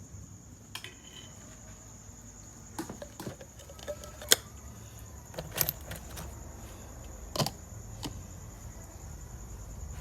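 A handful of sharp clinks and knocks of small hard objects, the loudest about four seconds in, over a steady high chirring of insects.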